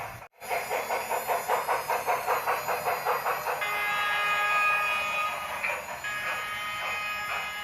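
Union Pacific Big Boy model steam locomotive's sound effects: steady chuffing at about four beats a second, broken in the middle by a multi-tone steam whistle held for about two seconds, then chuffing again with a second whistle near the end.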